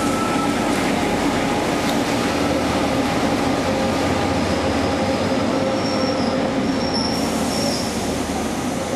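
A diesel locomotive and its passenger carriages roll slowly through an enclosed underground station, with a steady engine rumble throughout. A high-pitched squeal from the running gear comes in about halfway through and fades near the end.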